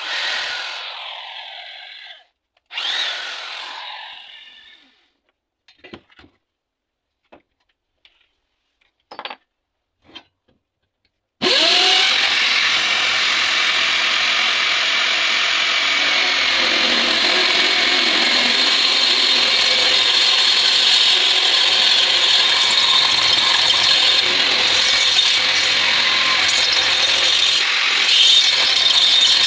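Homemade saw driven by an old washing-machine motor: two short sounds that each die away over a couple of seconds and a few light clicks, then about eleven seconds in the motor starts and runs steadily and loudly with a high whine.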